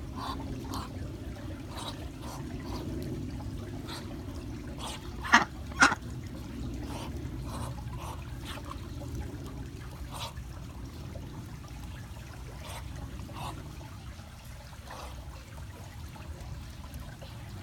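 Birds feeding on a mix of apple, peas and earthworms, with scattered short pecking taps and two sharper knocks about five and a half and six seconds in, over a steady trickling, water-like noise.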